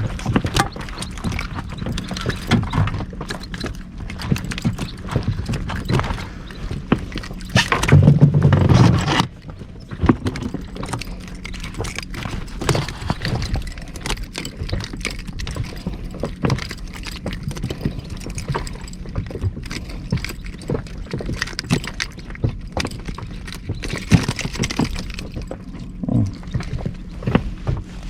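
Irregular knocks and handling noise aboard a small inflatable boat at sea, with a louder low rush about eight seconds in.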